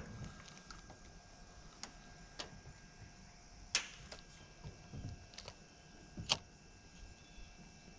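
Scattered sharp clicks and taps, irregular and a second or so apart, the loudest about four and six seconds in, from a fishing rod and reel being handled while jigging. A faint steady hum sits under them.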